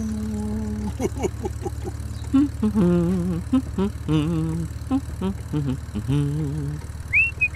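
A person humming a wavering tune in short held notes over a steady low hum.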